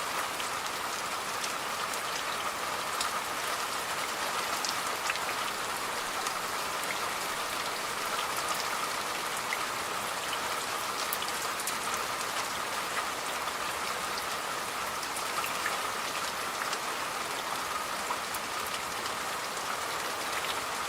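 Steady rain falling, a constant hiss dotted with the ticks of many individual drops hitting a surface.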